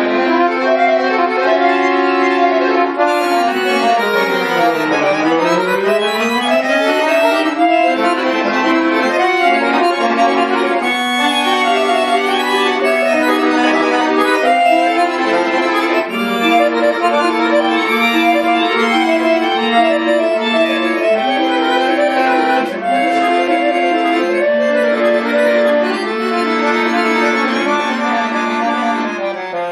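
Bayan (Russian chromatic button accordion) playing: held chords with quick runs over them, and a fast run sweeping down and back up about four to six seconds in.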